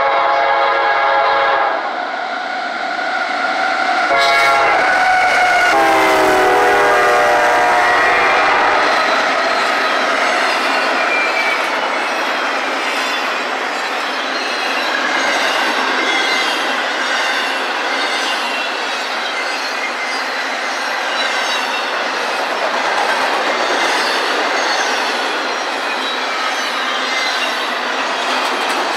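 Air horn of a CSX freight train led by GE CW44AC diesel locomotives: a short blast, then about two seconds later a longer blast whose pitch drops as the locomotives pass. Then a long string of double-stack intermodal cars rolls by with steady wheel-on-rail clatter.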